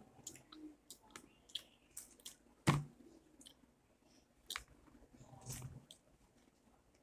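Close-up chewing and hands pulling apart ripe jackfruit flesh and fibres: scattered small clicks and wet smacks, with one louder knock a little under three seconds in.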